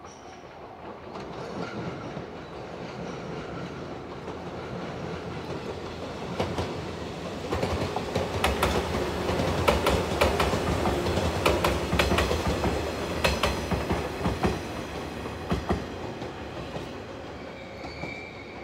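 115-series three-car electric train running past on the rails as it comes into the station: the rumble builds, the wheels click sharply over rail joints as it passes closest, then it eases off. A thin high squeal comes in near the end as the train slows.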